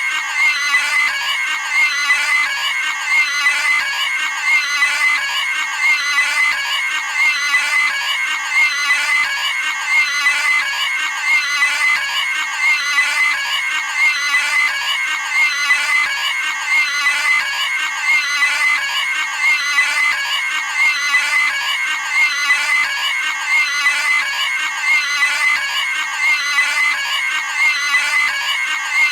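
A cartoon pig's high-pitched scream, looped: the same short squealing scream repeats over and over, about once every second or so.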